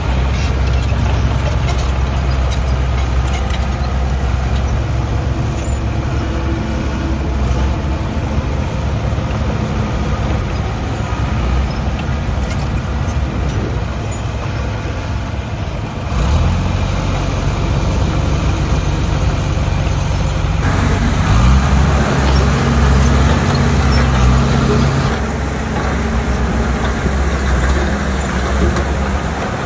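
Diesel heavy-equipment engines running steadily under load, with a low engine note that shifts sharply twice, about halfway through and again a few seconds later.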